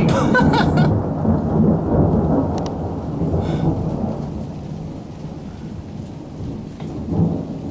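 Deep rolling thunder, loudest at the start and slowly dying away, swelling again briefly near the end, over steady rain.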